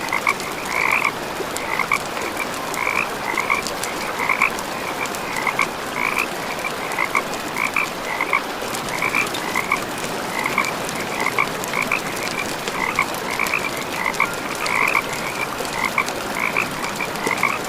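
Frogs croaking in a steady chorus, about two calls a second, with campfire wood crackling and popping in sharp clicks throughout.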